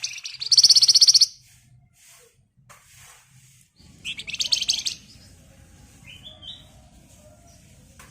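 Javan fulvetta (flamboyan) singing its dense, drill-like rattling trill: two loud, very rapid high trills about three seconds apart, then a short, soft run of rising notes near six seconds in.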